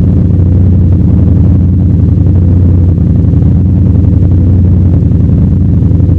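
V8 engine idling steadily shortly after a cold start, a loud, even low-pitched rumble with no revving.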